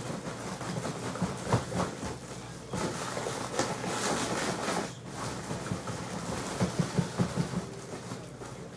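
Rustling of packages with light knocks as household items are moved and set down, including a quick run of several knocks near the end.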